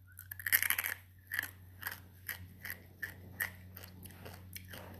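Crunching and chewing of a dried, seasoned black scorpion's tail: a quick cluster of crisp crunches about half a second in, then single sharp crunches every half second or so.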